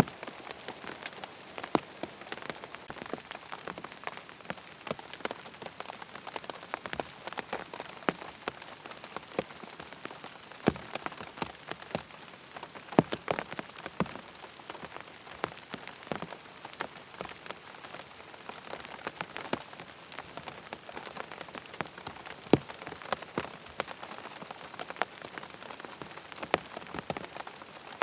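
Steady rain falling on a hard surface, with frequent sharp, separate ticks and pops of single drops.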